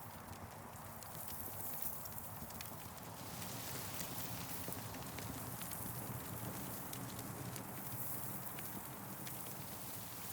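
Campfire crackling: scattered sharp snaps and pops over a steady low rumble.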